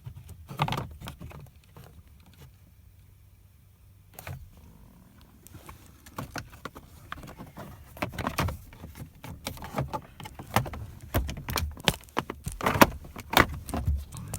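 Hard plastic steering-column trim covers being handled and pushed back into place: scattered clicks and rattles, quiet for a moment, then a quick, busy run of clicks and knocks through the second half.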